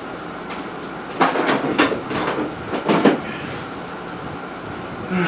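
Metal parts clattering and scraping as they are handled and dragged, in rough bursts for about two seconds starting a second in, then dying away.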